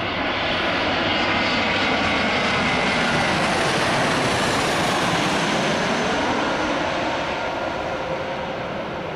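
Airbus A319 airliner's jet engines on landing approach, growing louder to a peak a few seconds in and then easing off as the plane passes, with a high whine sliding down in pitch.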